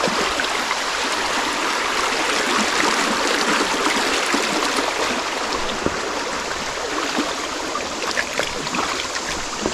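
Creek water running steadily, a constant rushing hiss, with a few faint knocks over it.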